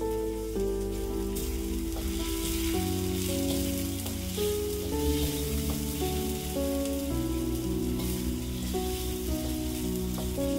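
Chili spice paste for asam pedas sizzling as it fries and is stirred in a wok, with slow background music of held notes changing about once a second.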